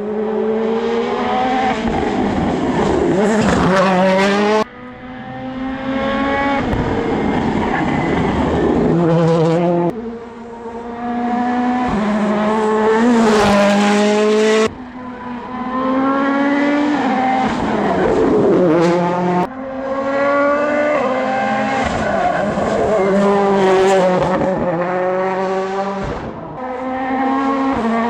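2017 Toyota Yaris WRC's 1.6-litre turbocharged inline-four rally engine driven hard, its revs climbing and falling again and again through the gears. The sound cuts off suddenly three times and then picks straight back up.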